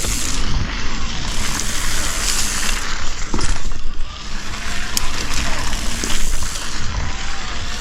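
Mountain bike riding fast over a gravel single-track: tyres crunching on loose gravel, with wind buffeting the microphone and a few sharp clicks and rattles from the bike.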